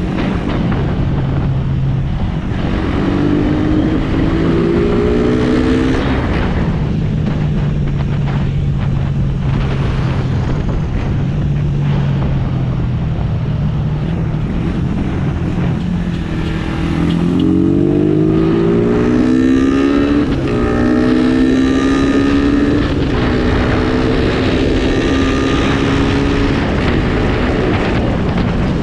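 Suzuki Raider R150's single-cylinder four-stroke engine heard from the rider's seat, accelerating with rising pitch a few seconds in, holding a steady cruise, then accelerating again through the gears after about seventeen seconds and settling at a higher steady pitch.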